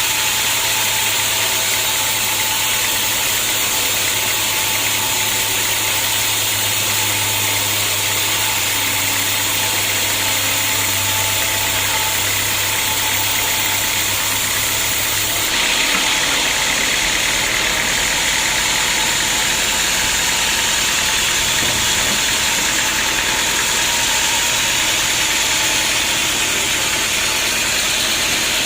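Homemade band sawmill running steadily, its engine and blade sawing a teak log. About halfway through, a low hum drops out and the sound shifts.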